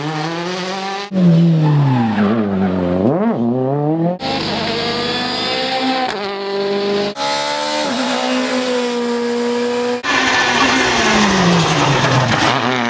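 World Rally Cars' turbocharged four-cylinder engines revving hard through gear changes, in a run of short cuts of different cars. The engine pitch climbs and drops repeatedly as they accelerate and lift, with steadier held notes in the middle cuts.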